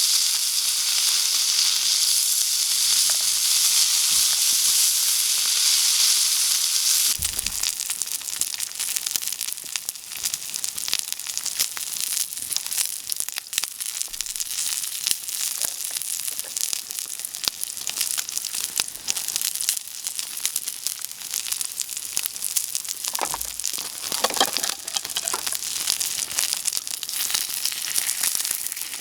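Food frying over high heat: a steady, loud sizzle for about seven seconds, then it drops and turns into dense crackling and spattering.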